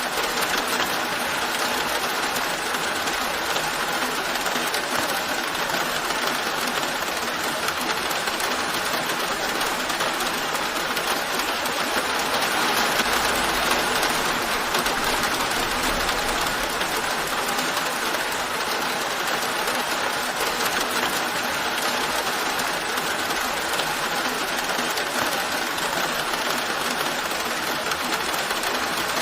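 Steady rain falling in an even, dense patter that swells slightly about halfway through.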